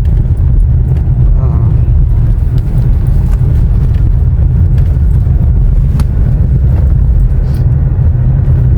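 Steady low rumble of a car driving: engine, road and wind noise heard from inside the moving vehicle.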